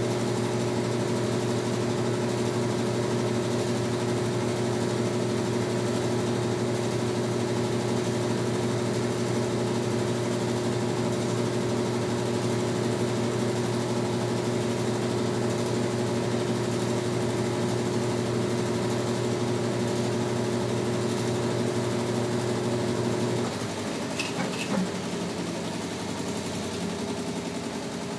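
Brastemp Tira Manchas Pro 12 kg washing machine running mid-cycle with a steady hum, which cuts off about 23 seconds in. A couple of sharp clicks follow, then a quieter steady machine sound.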